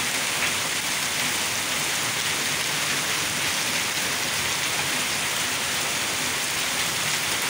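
Heavy rain pouring down steadily, a dense, even rush of falling water.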